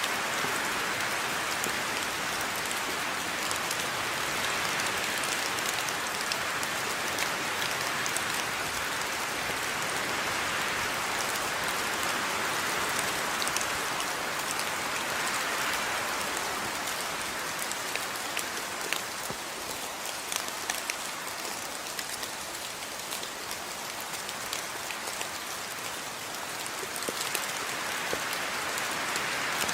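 Steady rain falling, with a dense hiss and many individual drops ticking on a surface. The hiss eases a little past the middle and builds again near the end.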